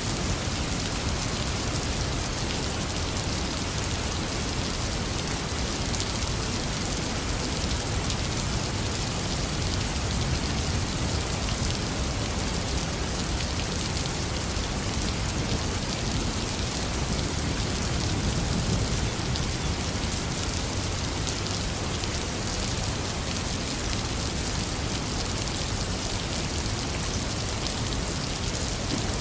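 Heavy rain falling steadily, a dense even hiss of drops on surfaces, with a low thunder rumble that swells slightly past the middle.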